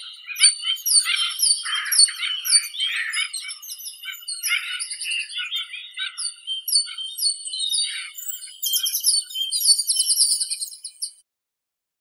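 Several birds chirping and calling over one another in quick, repeated high notes and trills. The sound cuts off abruptly about a second before the end.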